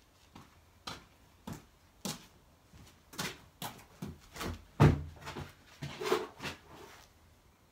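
An uneven series of about a dozen sharp knocks and clicks, the loudest about five seconds in.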